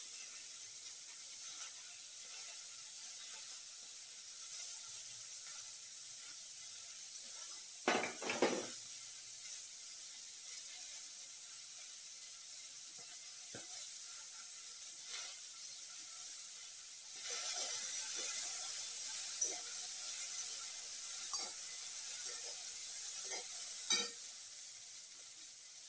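Green peas sizzling as they roast in a kadhai over a gas flame: a steady hiss that grows louder about two-thirds of the way through. Occasional light knocks and scrapes of utensils come over it, a cluster about a third of the way in and more near the end.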